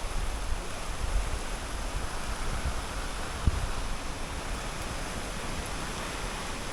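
Steady rushing storm wind, with gusts buffeting the microphone in irregular low thumps, one stronger about halfway through.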